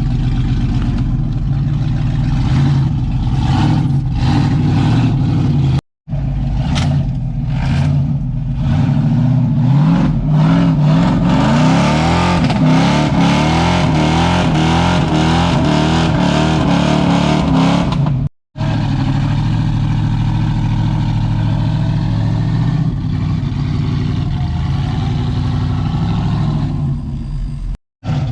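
A 4x4 competition truck's engine running hard, revving up and down repeatedly with rising and falling pitch, loudest and busiest in the middle, with a clattering undertone. The sound breaks off sharply three times where the footage is cut.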